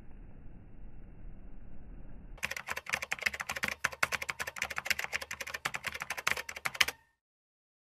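Quick, steady run of key-typing clicks lasting about four and a half seconds, then cut off suddenly. Before it, a faint low rumble of outdoor background noise.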